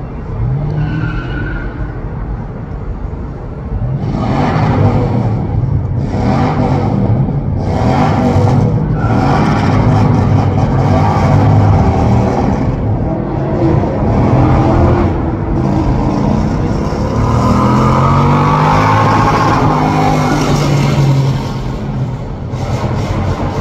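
Loud street traffic: vehicle engines revving, their pitch rising and falling again and again from about four seconds in.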